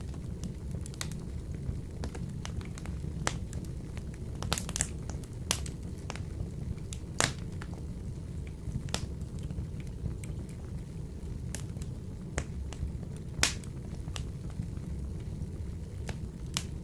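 Wood fire burning in a wood-burning stove: a steady low rumble of flames with irregular sharp crackles and pops, the loudest about seven and thirteen seconds in.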